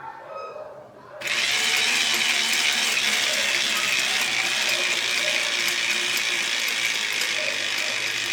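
Small electric motor running steadily with the dense chatter of gears, starting abruptly about a second in.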